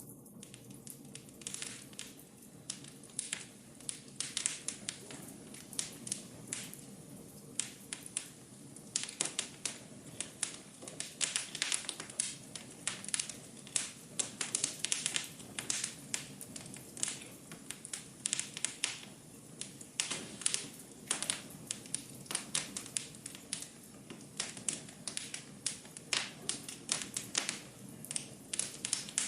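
Wood fire burning in a fireplace, crackling and popping in irregular clusters of sharp snaps over a soft steady hiss.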